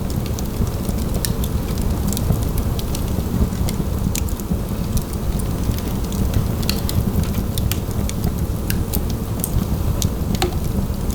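Wood fire in a fireplace crackling, with many sharp, irregular pops over a steady low rumble.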